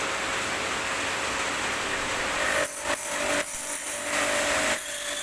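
H&L QL-1200 high-pressure jet cleaner running and spraying water with a steady hiss. The spray sound dips briefly twice, about halfway through and near the end.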